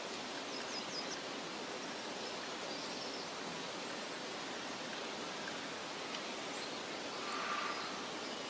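Steady meadow ambience: an even rustling hiss of wind through grass, with a few faint, short, high bird chirps and one slightly louder brief call about seven and a half seconds in.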